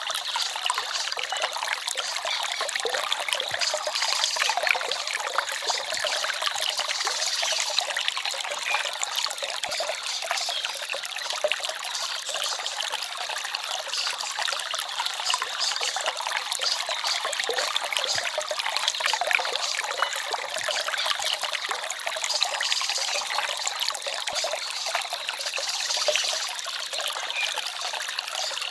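Small forest stream trickling and babbling steadily, a continuous splashing hiss full of small drips.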